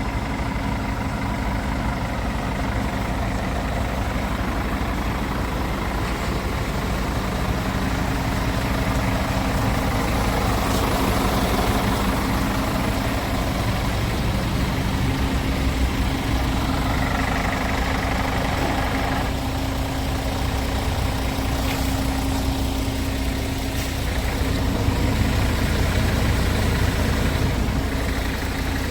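Scania S410 truck's 13-litre straight-six diesel engine idling steadily.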